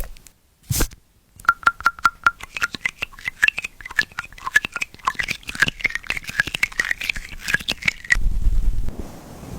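A dog chewing and crunching food: a dense run of quick sharp clicks mixed with short high squeaks, followed near the end by a brief low rumble.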